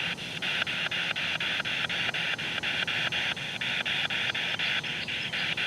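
Spirit box (a radio scanning rapidly through stations) sweeping, giving a steady rush of static chopped into short bursts about nine or ten times a second.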